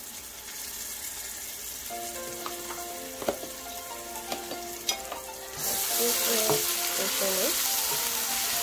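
Sliced onions and ginger-garlic paste sizzling in hot oil in a stainless steel pan. The sizzle grows much louder and brighter a little past halfway, as the pan is stirred with a spatula.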